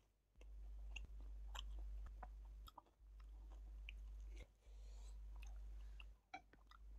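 Faint close-miked chewing of food, with scattered short wet mouth clicks and smacks. A low hum cuts in and out several times underneath.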